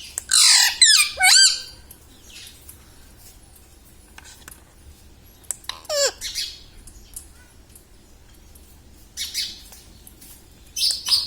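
Pet parrot squawking: a loud run of rapid, wavering high calls in the first second and a half, then a single falling call about six seconds in, a few short harsh squawks around nine to ten seconds, and another call near the end.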